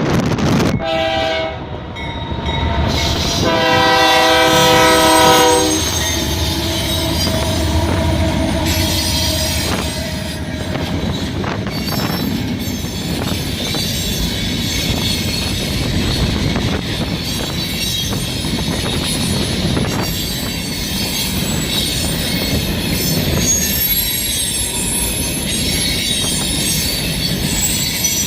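Train horn sounding two short blasts and then a longer blast about four seconds in, followed by the train rolling past with steady rumbling, clicking wheels over rail joints and high-pitched wheel squeal.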